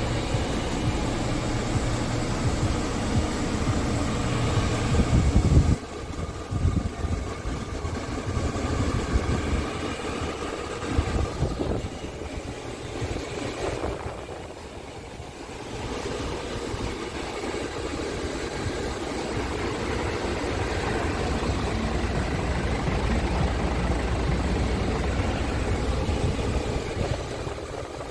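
Scania S tractor unit's diesel engine running steadily, its sound dropping suddenly about six seconds in and dipping again briefly around the middle.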